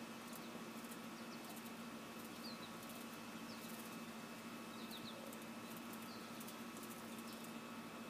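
Faint outdoor ambience: a steady low hum, with small birds giving short, brief chirps now and then, several close together about five seconds in, and soft clusters of high, crackly clicks.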